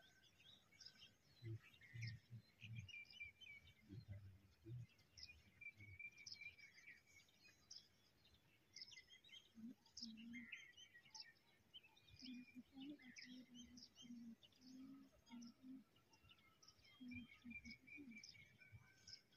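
Faint birdsong: many short chirps and calls from several birds, with faint low sounds underneath.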